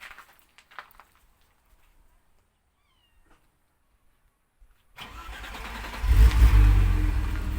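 BMW E34's engine being started remotely by the alarm: after a few faint clicks and some four seconds of near silence, the starter cranks for about a second, the engine catches with a loud burst of revs, then settles to a steady idle.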